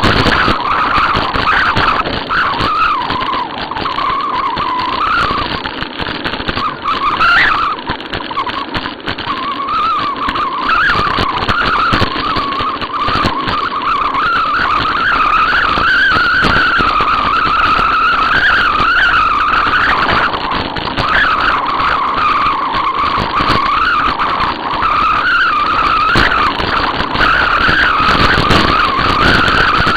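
Bicycle riding noise: a steady rush of wind and tyre sound with a high, wavering whine that rises and falls every second or so.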